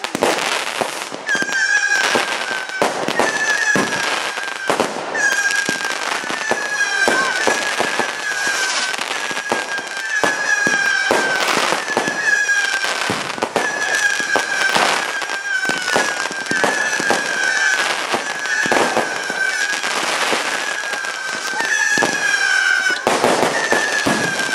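Fireworks barrage firing a long run of shots, each one a short, slightly falling whistle at about one a second, mixed with bangs and crackling bursts overhead.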